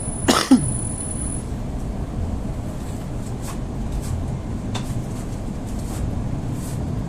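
EP2D electric train running, a steady rumble of wheels and motors. About half a second in, a brief sound slides quickly down in pitch and is the loudest moment.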